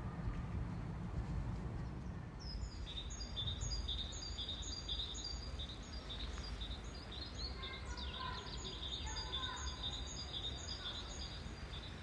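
A small songbird singing a long run of quick, high, repeated chirps, starting a couple of seconds in, over a steady low rumble of outdoor background noise.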